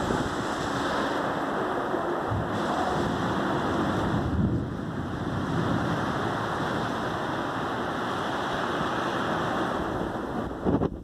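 Strong wind blowing ahead of a rainstorm, a loud steady rush with low rumbling buffets of wind on the microphone, dropping away sharply at the very end.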